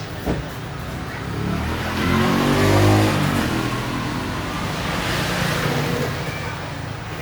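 A motor vehicle engine passing by, its pitch rising and then falling about halfway through, over a steady noisy background.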